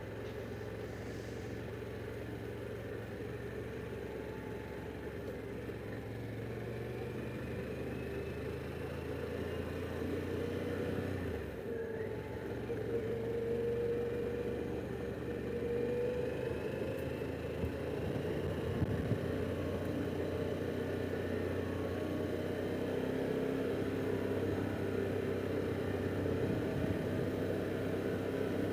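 Harley-Davidson Pan America Special's V-twin engine running while riding along, with a short dip in engine sound about a third of the way in and its pitch gliding up and down afterwards.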